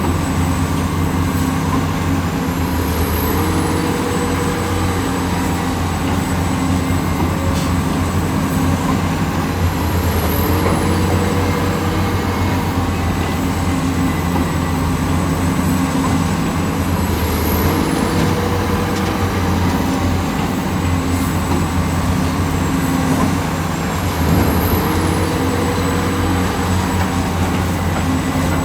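Diesel engine and hydraulics of an excavator running steadily under load. The engine note rises briefly, with a short high whine, about every seven seconds in a repeating work cycle.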